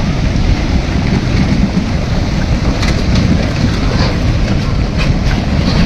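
Steady rumbling rush of a landslide's mud, water and debris, with a few sharp knocks from about three seconds in.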